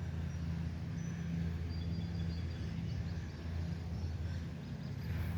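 Outdoor ambience: a steady low rumble with faint, short high bird chirps scattered through the middle.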